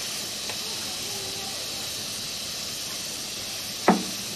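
Steady background hiss, with one short sharp sound a little before the end.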